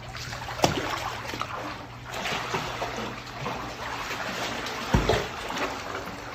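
Water splashing and trickling as alligators move in their pool, with a sharp splash about half a second in and a louder, deeper splash about five seconds in.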